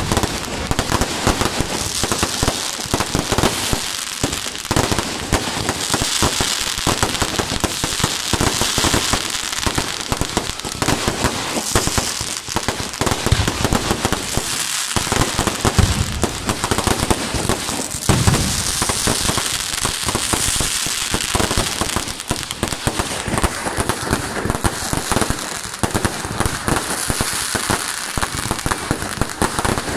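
Fireworks display in a dense, unbroken barrage: many aerial shells bang and burst one over another, with a continuous crackle from the spark-filled bursts, and no pause anywhere in it.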